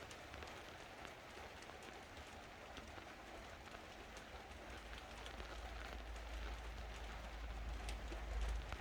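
Faint crackling and small clicks as a laptop screen panel is prised away from strong adhesive, with a low rumble of handling that builds through the second half.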